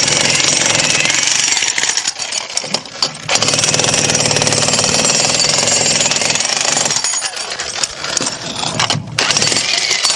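Jackhammer hammering rapidly and loudly into masonry, easing off briefly about three seconds in and again a few times near the end.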